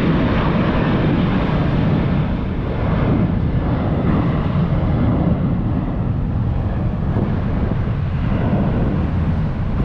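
Southwest Airlines Boeing 737's jet engines at takeoff power as the airliner climbs out, a steady low rumbling jet noise.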